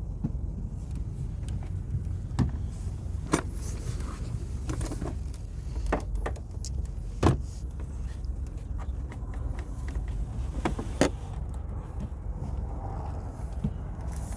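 Hand tools clicking and knocking against metal as a mechanic works on a diesel truck's hoses, over a steady low rumble. There are about half a dozen sharp clicks spread through it, the loudest a little past the middle.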